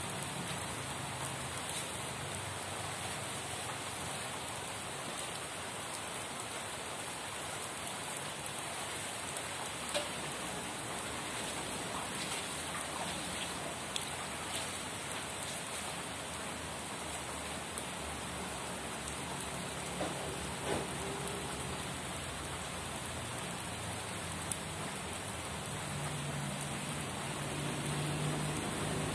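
Steady rain falling, with a few louder single drops ticking now and then. A low hum comes up near the end.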